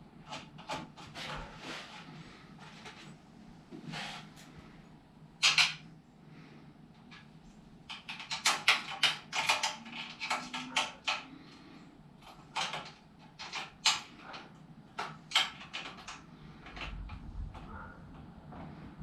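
Irregular clicks, clinks and knocks of tools and parts being handled during motorcycle front-end assembly, with one loud knock about five seconds in and a busy run of them around the middle.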